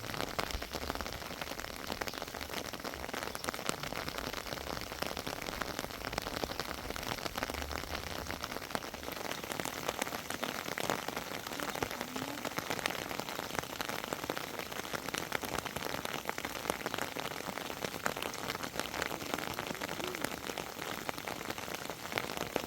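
Steady rain falling, a dense even hiss made of many fine drop impacts.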